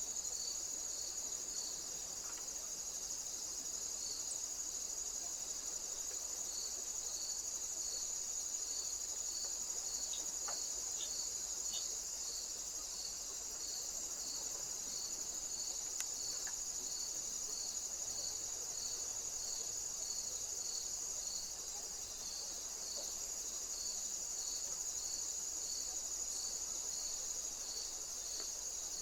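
Crickets and other insects calling: a steady high-pitched trill, with a second, lower chirp repeating about one and a half times a second.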